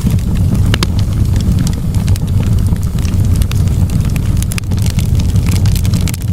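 Fireplace wood fire crackling: a steady low rumble of burning with many small, sharp pops and snaps scattered irregularly through it.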